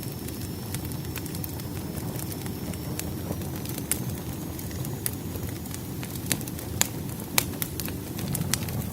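Firewood burning: a steady low rumble of flames with scattered sharp crackles and pops from the logs, several louder snaps in the second half.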